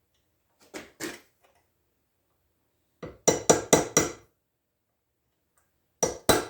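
Hammer blows on a small chisel driven into a gap on a steel shell mill held in a vise, sharp metallic taps with a slight ring. They come in three bursts: two taps about a second in, about five quick taps around three to four seconds, and two more near the end.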